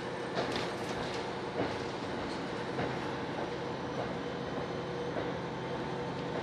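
Diesel railcar running along, heard from inside the cabin: a steady engine and running drone with irregular clicks and knocks from the wheels on the track.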